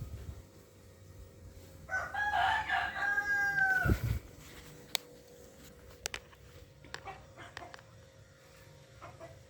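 A rooster crowing once, a call of about two seconds that drops off in pitch at the end, followed by a few light clicks over a faint steady hum.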